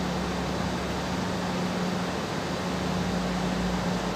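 Passenger train moving alongside the platform close by: a steady rushing noise with a steady low hum, cutting off suddenly near the end.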